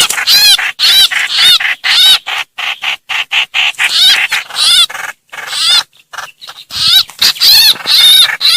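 Trao trảo bird giving harsh distress and flock-calling cries, the kind used as a lure to draw the flock in. The calls are rapid arched chirps, several a second, with a brief lull about two-thirds of the way through before the calling picks up again.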